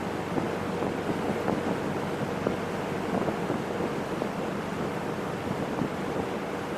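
Boat underway: water rushing and splashing along the hull, wind buffeting the microphone, and a steady motor hum underneath.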